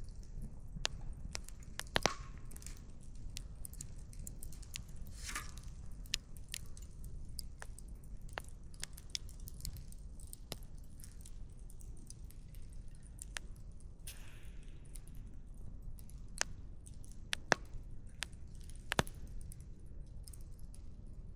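Wood fire crackling: irregular sharp pops and snaps of burning firewood, a few louder ones about two seconds in and near the end, over a steady low rumble.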